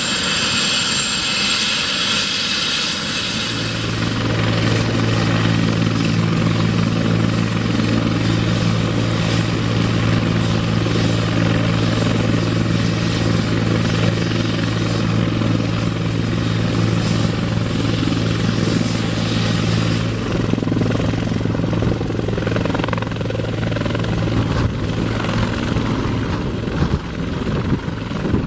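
Helicopter running with a steady low hum of rotor and engine. About three seconds in, a high turbine whine gives way to the low steady hum, which holds with little change in pitch.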